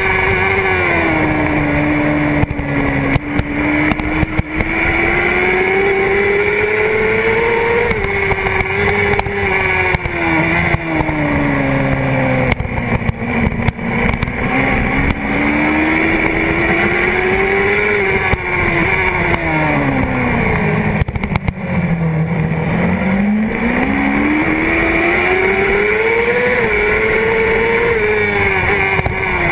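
Honda CBR600RR's inline-four engine at racing speed, its pitch climbing and falling as the bike accelerates and slows, with its deepest drop about three quarters of the way through before it climbs again. Wind rushes over the tank-mounted camera, with brief knocks from the bumpy track.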